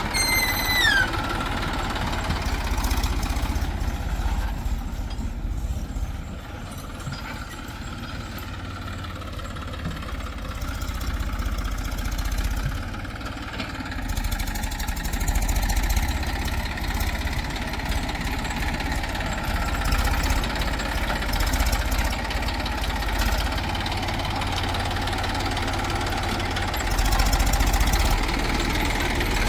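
Heavy diesel machinery running: a backhoe loader and tractors working and idling, with a steady low rumble that swells now and then. A short falling whine sounds in the first second.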